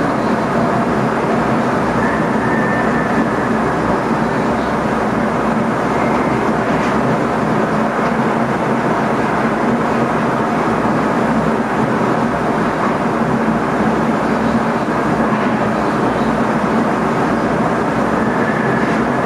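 Steady running noise heard inside the driver's cab of an NS ICM electric multiple unit travelling along the track: an even rumble and hiss with no breaks.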